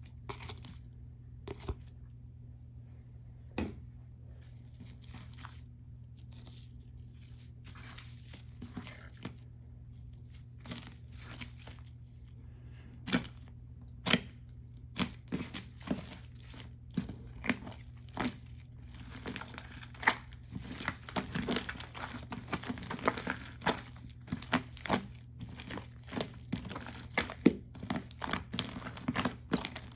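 Crinkling and crackling handling noise: a few scattered crackles at first, then a dense run of crinkling from about midway, over a steady low hum.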